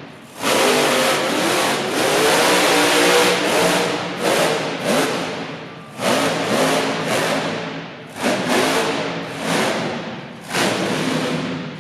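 Monster truck engine revving hard in repeated surges, about five in all, each climbing fast then falling away as the throttle is blipped and released.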